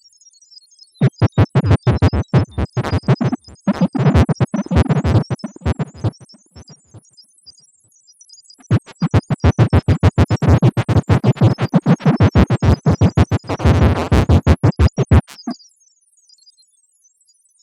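Synthesized robot sound effect: two runs of rapid electronic chattering pulses, the first about five seconds and the second about six and a half, with a faint high twitter of beeps running above them.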